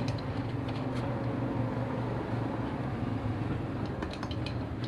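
Parsun 3.6 HP outboard motor running steadily at an even speed.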